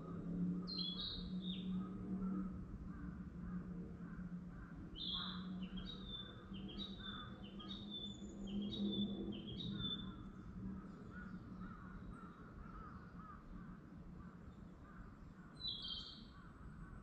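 Wild birds calling. One bird gives a quick run of about six short, sharp calls in the middle, with single calls near the start and near the end, over fainter continuous chatter and a low steady hum.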